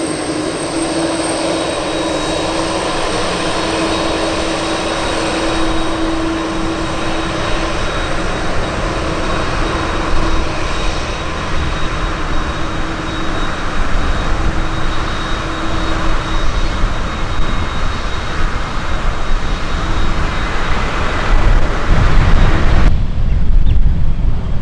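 Jet airliner's engines running loud and steady, a thin whine over the noise. Near the end the sound cuts suddenly to wind rumbling on the microphone.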